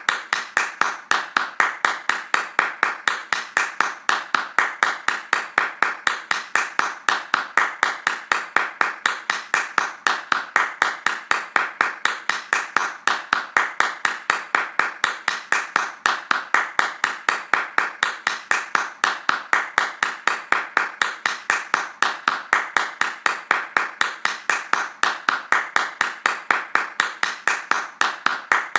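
Hand clapping in a fast, steady rhythm of about four to five sharp claps a second, keeping an even pace and loudness throughout.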